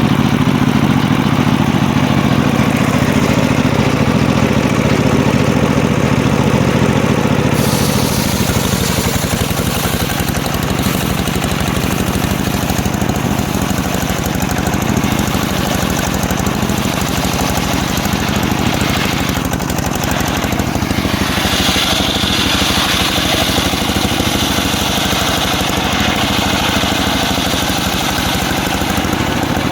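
Engine-driven homemade circular sawmill running steadily under a loud engine. About a quarter of the way in a brighter, hissing layer joins it, and about two-thirds of the way in a high steady whine comes in on top.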